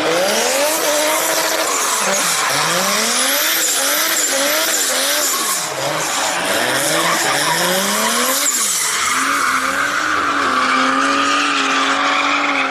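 Drift car engines revving hard, the pitch rising and dropping back over and over, with tyres squealing across the track; near the end the engine settles into a steady note.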